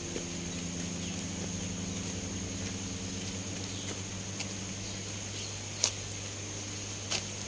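Tropical forest ambience: a steady high-pitched insect buzz over a low, even hum, with two sharp clicks in the last two seconds.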